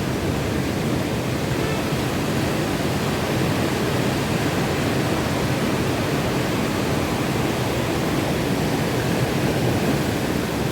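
Monsoon sea surf and wind: a steady, even roar of waves with no single crash standing out.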